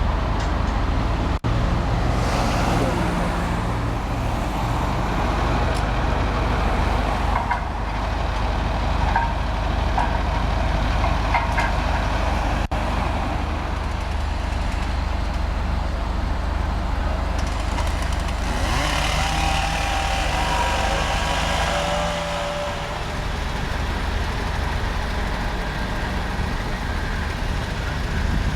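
Steady low rumble of road vehicle and traffic noise, with faint voices now and then.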